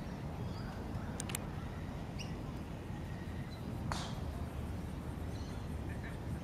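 Outdoor ambience: a steady low rumble, with scattered short bird chirps and a sharp click about four seconds in.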